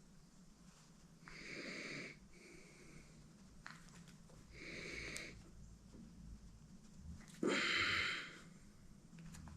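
Three breathy, wheezy breaths, each just under a second long, a few seconds apart; the last is the loudest.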